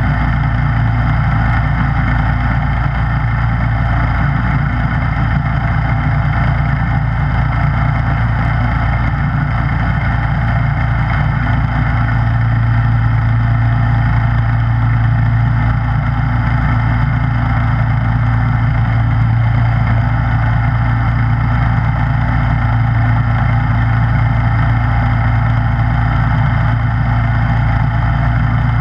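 Snowblower engine running steadily at an even pitch, with a low hum that grows slightly stronger about twelve seconds in.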